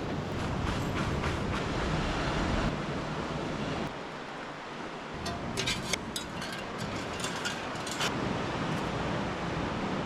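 Steady rushing noise of wind and surf, with a run of short clicks and crackles a little past the middle.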